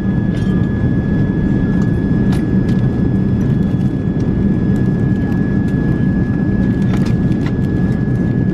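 Airliner cabin noise in flight: a steady low rumble of engines and airflow with a thin constant whine above it, and a few light clicks.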